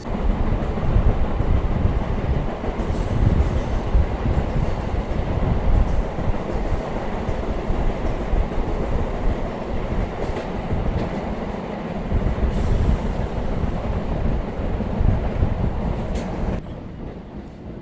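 Suburban electric local train (EMU) running at speed, heard from the open doorway of the coach: a steady rumble of wheels on rail, with high squeals from the wheels coming and going several times. Another local train runs by on the next track. The noise eases near the end.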